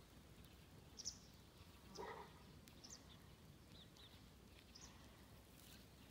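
Near silence outdoors, broken by faint, short, high bird chirps scattered through it, with one brief, slightly lower sound about two seconds in.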